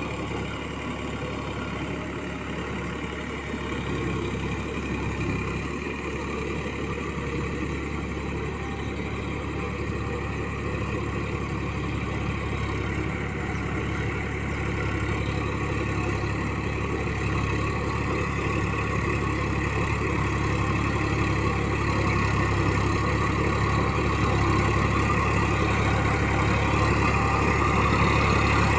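Massey Ferguson MF 9000 tractor's diesel engine running steadily while it works the wet field, getting gradually louder.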